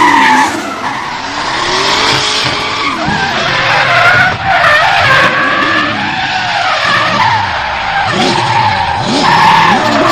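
Drift car engine revving hard with its pitch rising and falling repeatedly, over tyres squealing through a sustained slide.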